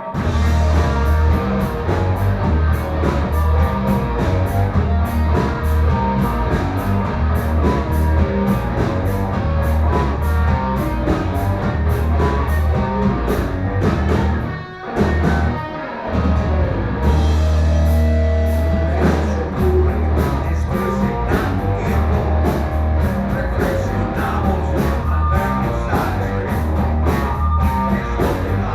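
Loud rock music with guitar and drums over a heavy steady bass beat; it dips briefly about 15 seconds in.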